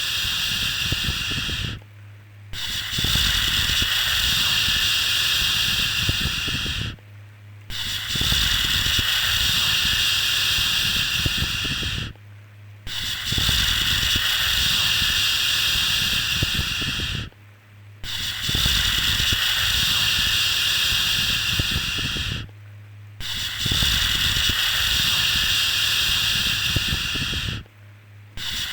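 A long shushing "shhh" held for about four and a half seconds, then a brief pause, repeating steadily about every five seconds, used to soothe a baby to sleep.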